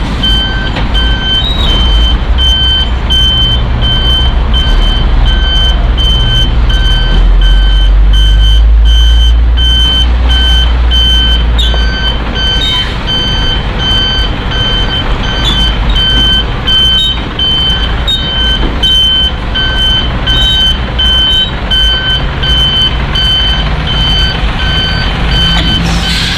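A truck's reversing alarm beeps in a steady, even series over the low rumble of the diesel engine. The beeping stops near the end.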